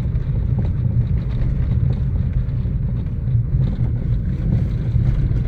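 Inside a Chevrolet Onix Plus cabin: tyres rumbling over cobblestones, with small irregular knocks from the driver's side. The owner blames the knocks on the steering box.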